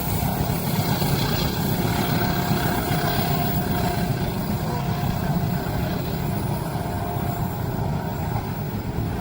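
Train passing close by at speed: a steady, heavy rumble of wheels on rails with faint thin tones over it.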